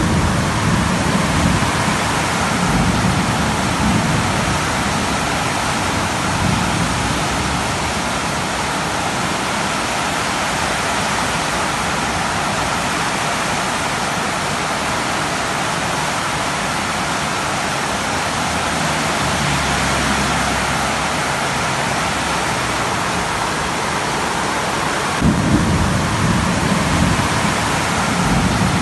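Heavy tropical downpour: a steady, dense hiss of rain. Strong gusts of wind rumble low on the microphone in the first few seconds and again near the end.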